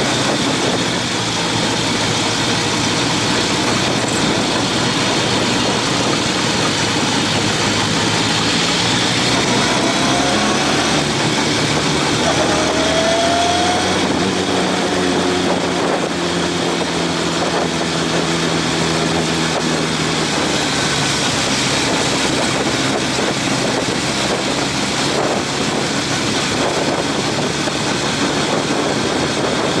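Motorcycle engine running steadily under wind and road noise while riding, its engine note shifting slowly in pitch.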